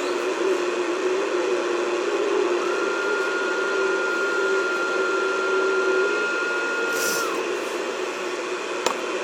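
CB radio receiver hissing with static on an open channel between transmissions, with steady heterodyne whistles over it: a low wavering tone throughout and a higher steady tone from about three to seven seconds in. A sharp click comes near the end.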